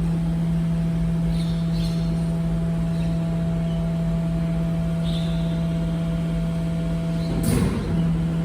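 Garbage truck running with a steady low hum, with a few short high squeaks and a brief noisy burst about seven and a half seconds in.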